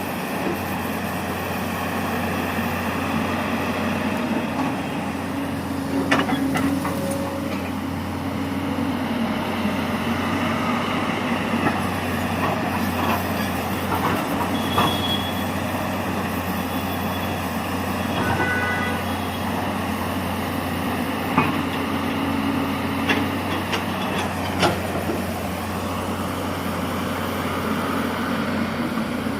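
Heavy road-construction machinery engine running steadily, with a few sharp clanks now and then.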